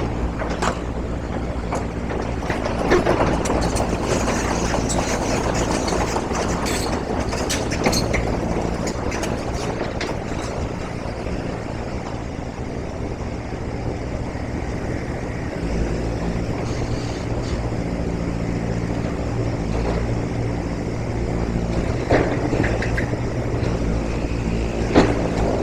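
A steady low mechanical drone, with a few scattered knocks and clicks.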